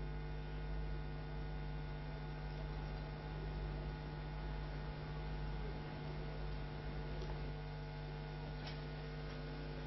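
Steady electrical hum, like mains hum, with many evenly spaced overtones over a low rumble.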